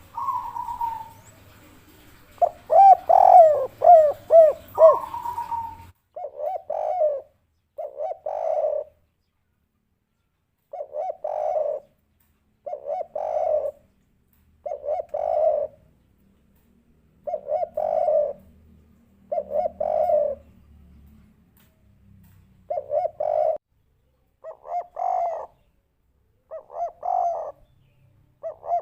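Spotted dove (derkuku/tekukur) cooing in the 'kuk 3' style, short cooing phrases repeated roughly every two seconds. In the first few seconds, louder sliding calls come before the cooing begins.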